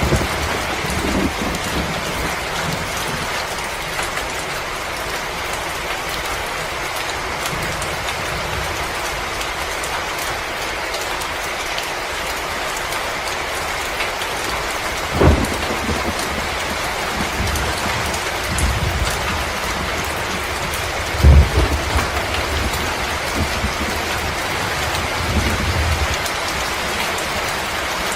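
Wood fire burning in a fireplace: a steady crackling hiss with small pops, and two louder low thuds about halfway and about three-quarters through.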